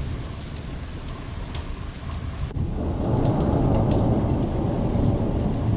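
Thunderstorm rain falling steadily, with small drips ticking. About halfway through, a low rumble of thunder swells and holds.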